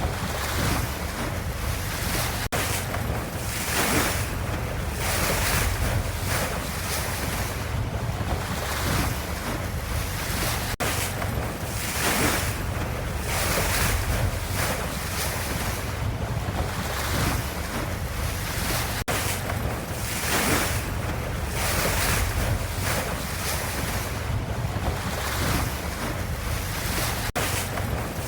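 Ocean waves: a continuous wash of surf noise that swells and eases every second or two. Brief dropouts about every eight seconds suggest a looped recording.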